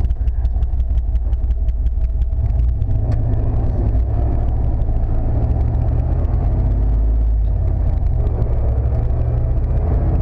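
1995 Chevrolet C/K 1500 pickup's engine running steadily as the truck is driven in four-wheel-drive low, with a few light clicks in the first couple of seconds.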